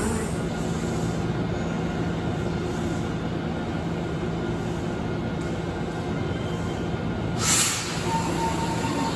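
Tobu 200 series limited express standing at a platform, its onboard equipment humming steadily, with a short hiss of released air about seven and a half seconds in.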